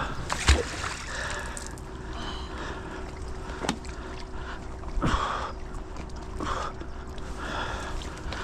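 Water sloshing and splashing at the edge of a canal as a fishing magnet and its rope are worked through the water. There are a few sharp knocks, one about half a second in and two more in the middle.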